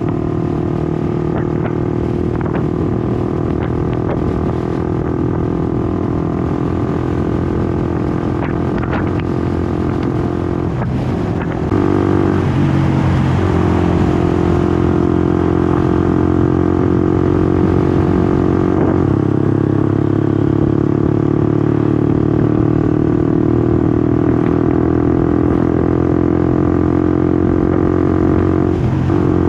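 Honda CBR150R's single-cylinder four-stroke engine running under way. Its revs dip briefly and pick up again about eleven seconds in, after which it runs louder, and dip once more near the end.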